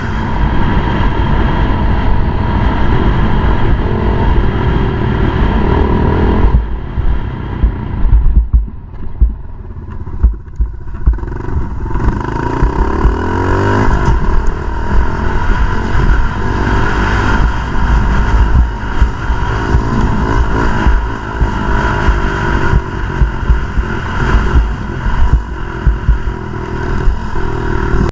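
Pit bike engine running hard under way, with heavy wind buffeting on the microphone. About seven seconds in, the engine eases off, then revs back up around eleven to thirteen seconds and carries on at speed.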